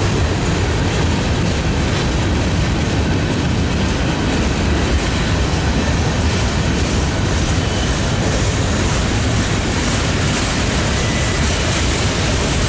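CSX freight train's gondolas and steel-coil cars rolling past on the rails, a steady, loud noise of steel wheels on track.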